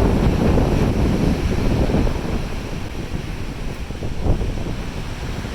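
Sea waves rushing alongside a moving cruise ship, with wind buffeting the microphone. It is a steady low rushing, a little louder in the first couple of seconds and easing slightly after.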